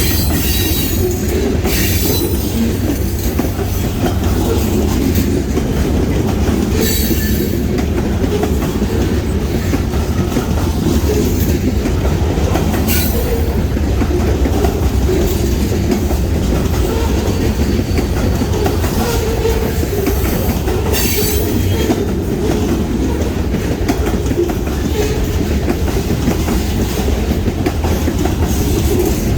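Freight train cars rolling past on jointed track: a steady rumble of wheels on rail with clickety-clack, and a few brief high-pitched wheel squeals about 1, 7, 13 and 21 seconds in.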